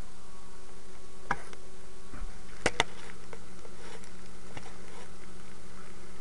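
Microwave oven running with a steady hum while an egg heats inside. A few short clicks sound over it, one about a second in, a close pair near the middle and another later.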